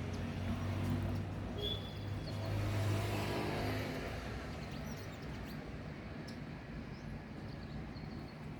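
A passing motor vehicle's engine, a low hum that is loudest about three seconds in and then fades away, with a few faint bird chirps over it.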